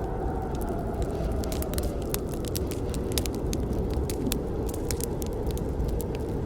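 Campfire burning: many sharp, irregular pops and snaps of the wood over a steady low noise of the fire.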